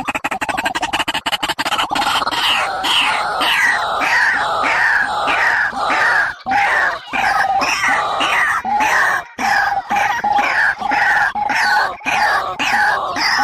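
Bird calls: a rapid rattling trill for about two seconds, then a long run of short calls that each slide down in pitch, about two a second.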